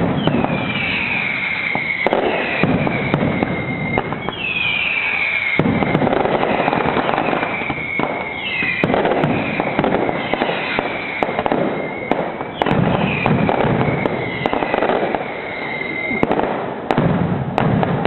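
Fireworks display going off continuously: bangs and dense crackling, with a run of high whistles that drop in pitch and hold, one about every two seconds.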